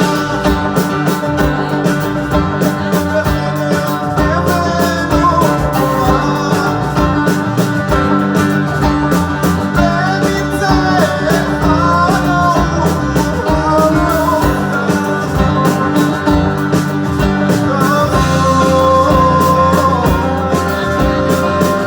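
Rock music with guitar and a steady drum beat, carrying a wavering melody line that may be a voice or a lead instrument.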